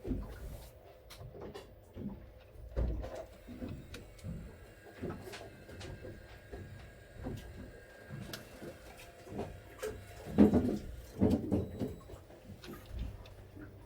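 Irregular small knocks and clicks of handling, with a cluster of louder knocks about ten seconds in.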